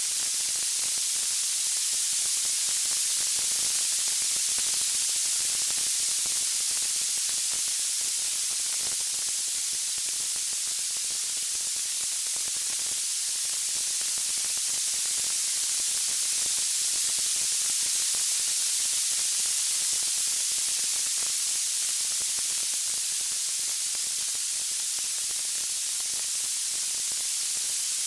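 Steady, bright white-noise hiss with its weight in the high pitches, unchanging throughout, without distinct crackles or pops.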